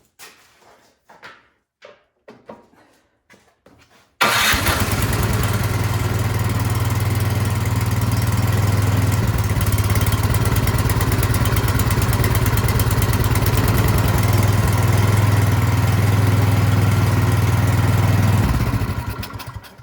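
Craftsman snowblower's four-stroke engine starting on choke after a carburetor cleaning. It catches suddenly about four seconds in, runs steadily for about fourteen seconds, then stops and dies away near the end. It is running great, a sign that the cleaned carburetor is working.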